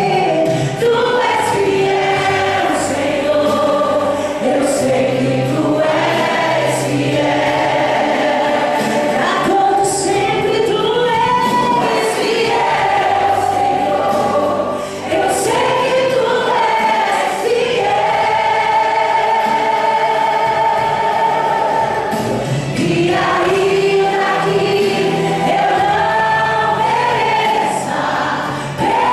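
Choir singing a hymn in parts, holding long chords. The singing dips briefly between phrases about halfway through and again near the end.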